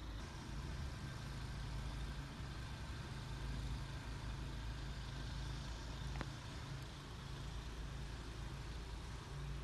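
Steady low engine hum over a faint even hiss.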